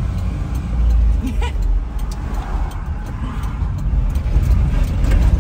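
Honda Acty kei truck driving, a steady low engine and road rumble.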